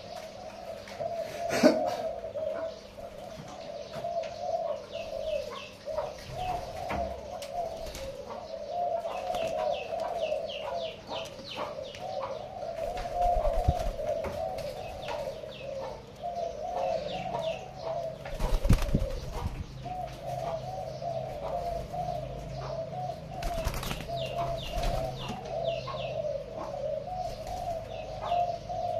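Pigeons cooing without a break in a low warbling chorus, with runs of quick high chirps over it and a few sharp knocks.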